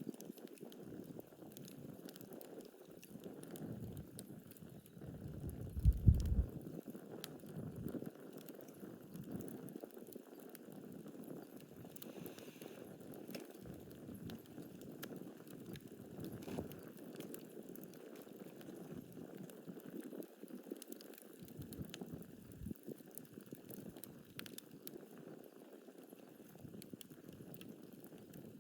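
Wood campfire burning, with a steady hiss and many small sharp crackles and pops. There is one louder low thump about six seconds in.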